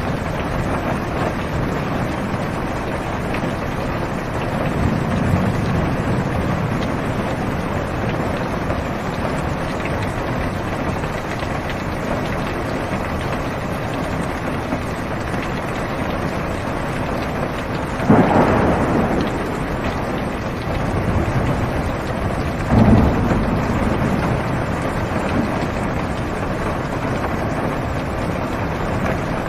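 Heavy rain drumming steadily on a car's roof and windows, heard from inside the car, with thunder: a low rumble a few seconds in, then two sharper, louder claps past the middle, about five seconds apart.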